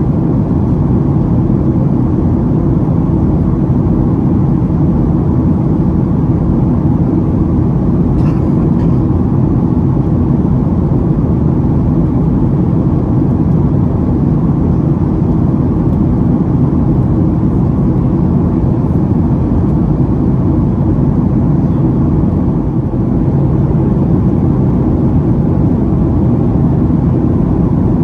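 Steady, deep cabin noise of a Boeing 737-800 in cruise: the drone of its CFM56 turbofan engines and the rush of air past the fuselage, heard from a passenger seat.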